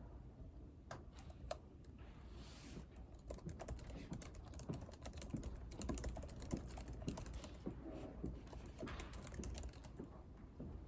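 Typing on a computer keyboard: a fast run of key clicks, sparse at first and densest in the middle, over a low steady room hum.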